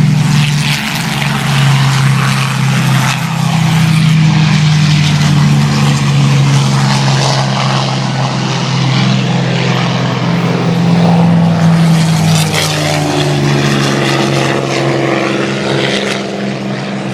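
An aircraft engine droning loudly at a steady low pitch that drifts up and down a little, under a rushing noise with a few short crackles.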